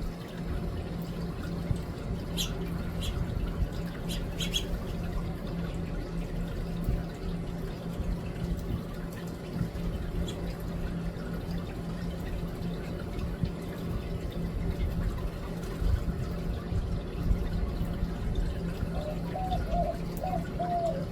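Steady low outdoor rumble with a few short high chirps from small birds about two and four seconds in, and a run of short, low repeated calls near the end.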